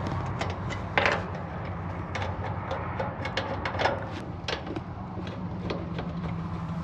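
Scattered light clicks and taps of metal tools and fittings being handled, with a sharper knock about a second in and another near four seconds, over a steady low hum.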